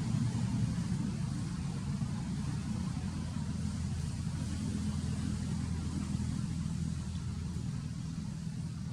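A steady low engine rumble, like a vehicle idling, easing off slightly near the end.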